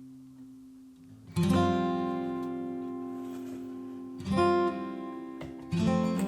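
Background music: acoustic guitar strumming chords, each ringing out and fading, with new strums about a second in, near four seconds and near six seconds.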